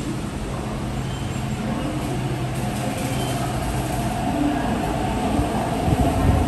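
MTR East Rail Line R-Train electric multiple unit pulling away from the platform, its traction equipment humming and the wheels starting to roll. The sound grows louder near the end, with low thuds as the cars speed up past.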